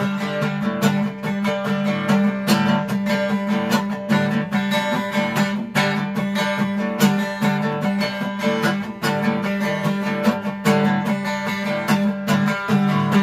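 Strummed acoustic guitar playing an instrumental passage of a country-style song, steady rhythmic strokes without singing.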